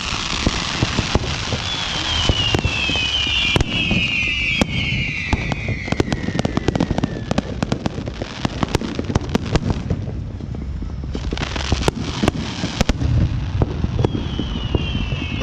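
Fireworks going off: a dense run of sharp pops and crackles over a low rumble, with several whistles falling in pitch in the first half and again near the end, and a burst of crackling hiss about two thirds of the way in.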